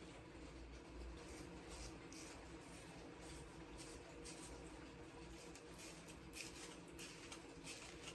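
Faint scratching and rustling in soft, irregular strokes over a low steady hum: hands and a styling tool working on a wig's hair.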